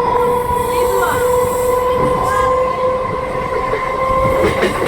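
Electric multiple-unit suburban local train running: a steady two-note electric whine over the rumble of the wheels on the track.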